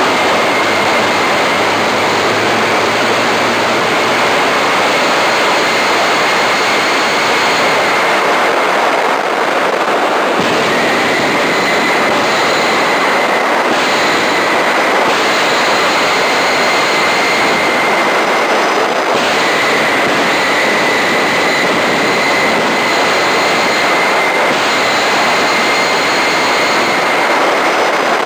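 Homemade gas turbine jet engine running with a steady, loud rushing noise and a high whine. The whine and the upper hiss step up and down a few times, notably about ten seconds in and again near nineteen seconds.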